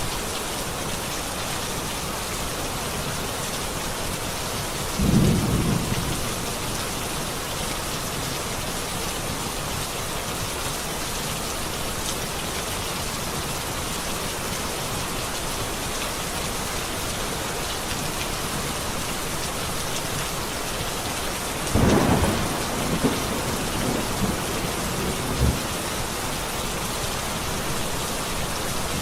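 Steady rain falling, with thunder: a low rumble about five seconds in, then a louder series of rumbles and claps from about three-quarters of the way through.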